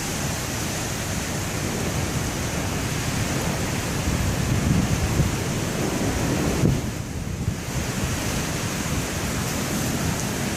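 Heavy wind-driven rain and gusting storm wind, the wind buffeting the microphone with a rough low rumble under a steady hiss. The hiss drops briefly about two-thirds of the way through.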